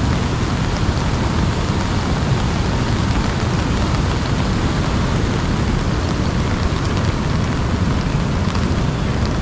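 Steady rain falling on an umbrella, with faint scattered drop ticks over a dense, steady low rushing noise.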